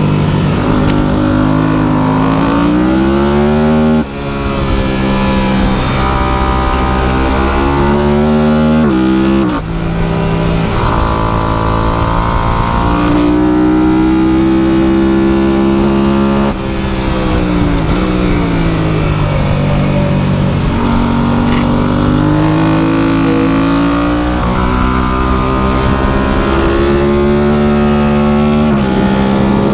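Superbike engine accelerating through the gears: the engine note climbs, then drops sharply at each upshift, three times, before winding down and pulling up again.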